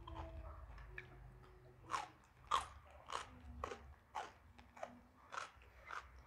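Crunchy chewing of raw jengkol (dogfruit): a regular run of crisp crunches, a little under two a second, starting about two seconds in.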